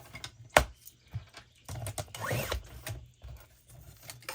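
Printed branding strip being torn off the edge of a sheet of scrapbook paper, a zipper-like paper tear, with a sharp tap about half a second in.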